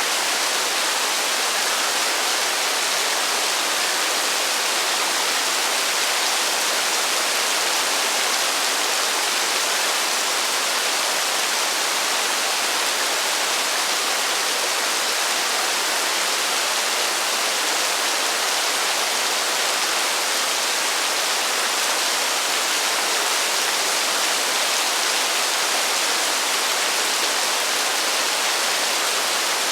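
Heavy rain falling steadily with no thunder: an even, unbroken hiss with no single drops or changes standing out.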